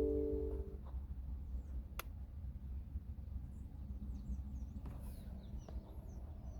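A few-note electronic chime from the phone fades out in the first second. After it comes a faint, steady low rumble with a few faint high chirps and a single sharp click about two seconds in.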